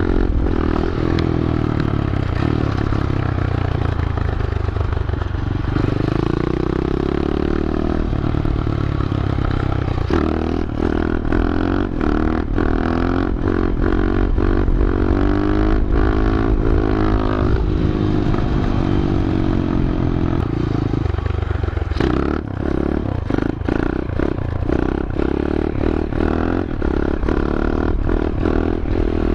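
A small single-cylinder pit bike engine being ridden, its pitch climbing and dropping again and again as it is revved and eased off. Short clattering knocks come in frequently during the last several seconds.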